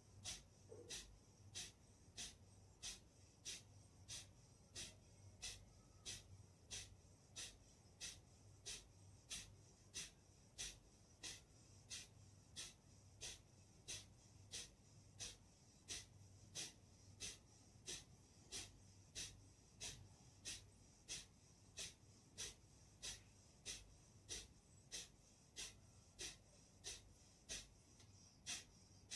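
Kapalbhati breathing: short, forceful exhalations through the nose, driven by sharp contractions of the abdomen, repeated at an even pace of about three every two seconds without a break.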